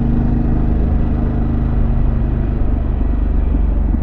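Harley-Davidson Pan America Special's Revolution Max 1250 V-twin running at a steady cruise, with wind noise, heard through a mic inside the rider's helmet.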